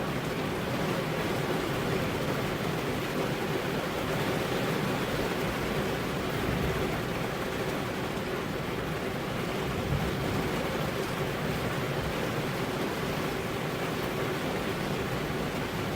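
Steady rain drumming on a car's windows and body, heard from inside the car as an even, continuous hiss.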